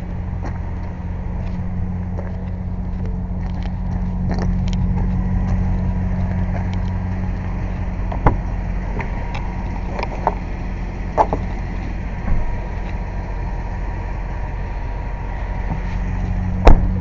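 Air compressor running with a steady low hum. Several sharp metal clanks come over it, and the loudest is just before the end.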